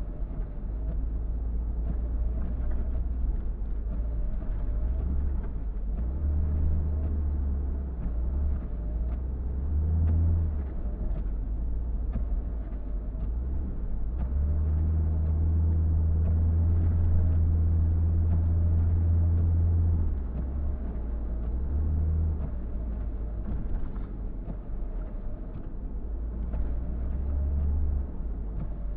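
Car driving along: steady low engine and road rumble, with a stronger steady drone for several seconds around the middle. A faint short sound repeats about once a second.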